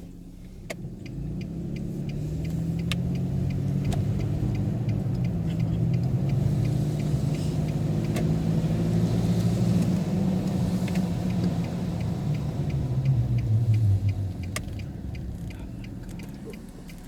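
Vehicle engine running under way, its pitch climbing gradually as it gathers speed and then easing off near the end, with a light, regular ticking over it.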